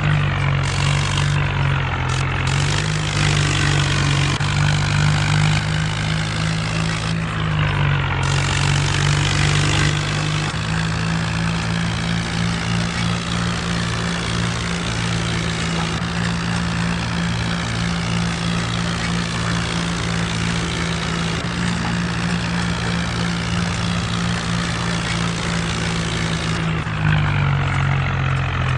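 Mahindra Arjun tractor's diesel engine running steadily, its speed stepping up and down a few times.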